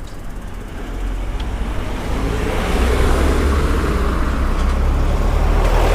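Road traffic close by, a vehicle's engine and tyre noise building up over the first couple of seconds and then holding steady.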